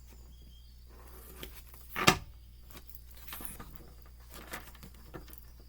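Light handling noises: soft rustles and small taps, with one sharp knock about two seconds in.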